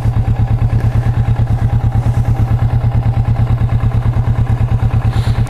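Kawasaki Vulcan S 649 cc parallel-twin engine running steadily, with an even, rapid pulsing beat.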